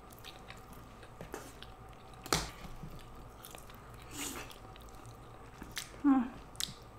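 Close-miked chewing and mouth sounds of people eating naan and curry, with scattered small wet clicks and a sharper click about two and a half seconds in. A brief voiced hum with a falling pitch comes near the end.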